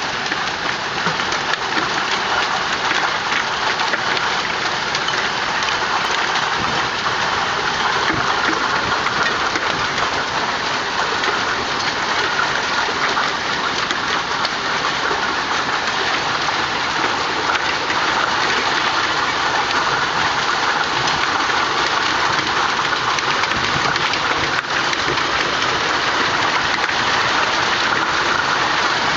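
Hailstorm: hail and heavy rain falling and striking surfaces, a loud, steady, dense patter with no let-up.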